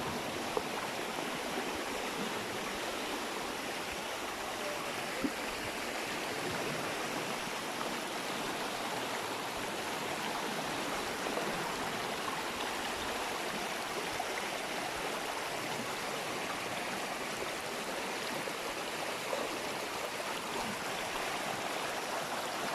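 A small waterfall of fresh water running steadily over rocks: an even rushing of water, with a faint tick or two.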